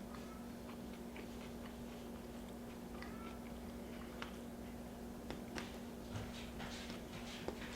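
Close-up mouth sounds of someone chewing food, with scattered small wet clicks that come more often near the end, over a steady low hum.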